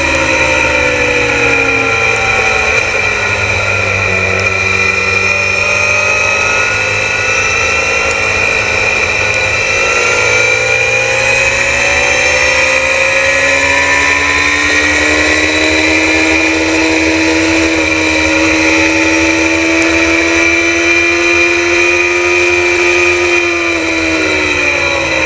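Onboard sound of a Suzuki GSX-R750 inline-four racing motorcycle at high revs, with the rush of wind on the microphone. The engine note drops over the first few seconds, climbs slowly and steadily through the middle, and falls again near the end.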